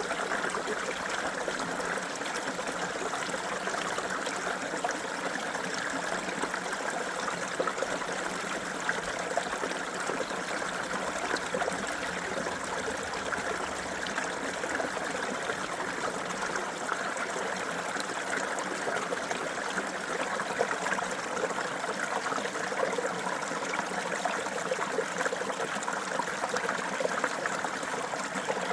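Small creek running and trickling steadily over stones, an even splashing babble without breaks.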